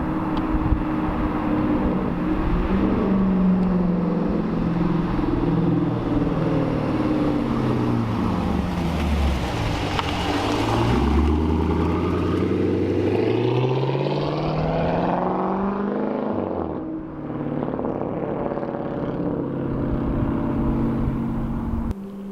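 Straight-piped V8 exhaust of a 2015 Dodge Challenger R/T, fitted with headers and stock catalytic converters but no mufflers. The engine note falls to a low rumble about ten seconds in, then climbs steadily for several seconds as the car accelerates, before settling to a steady note.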